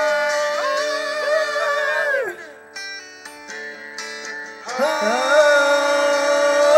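Amateur male singing of a long held final note over acoustic guitar. The voice breaks off about two seconds in while the guitar plays a few plucked notes, then the singing comes back in with another held note near the end.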